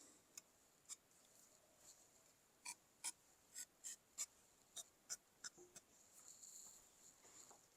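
Faint, irregular light clicks and taps, about a dozen, over near silence, like small hard objects being handled.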